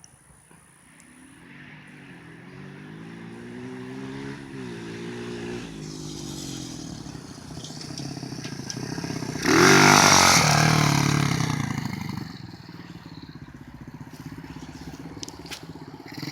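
A small four-speed Tahoe dirt bike engine running under throttle, its pitch climbing and dropping several times. It grows louder to a peak about ten seconds in, then fades away as the bike rides off.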